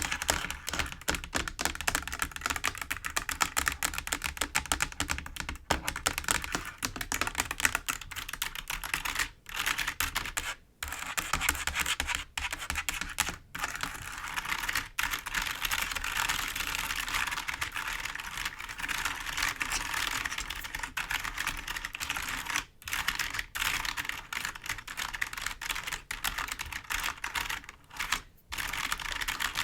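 Fingers tapping and scratching on a computer keyboard: a rapid, continuous run of clicky key taps, with a few brief pauses.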